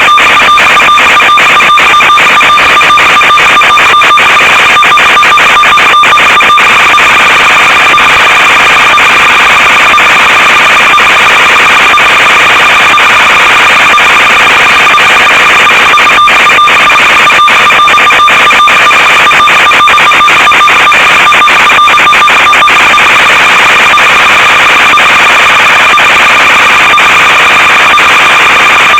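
Loud, steady hiss with a constant high whine, broken by many brief dropouts: the audio channel of an analog FPV video feed as recorded on the DVR.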